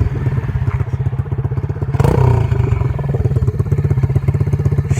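SSR 125 dirt bike's single-cylinder four-stroke engine running with a steady, even beat. There is a thump about two seconds in. The engine sounds wrong because its exhaust is coming off the bike.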